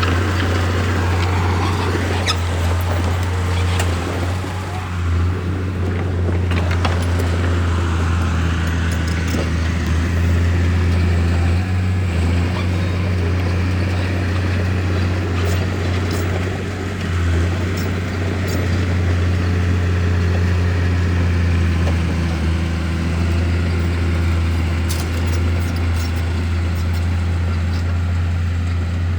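A bulldozer's diesel engine runs steadily with a deep, even drone, and a few faint clicks come through over it.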